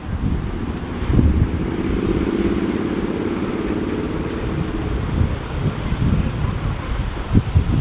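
Strong wind buffeting the microphone in gusty rumbles, with a low steady hum rising out of it for a few seconds in the middle.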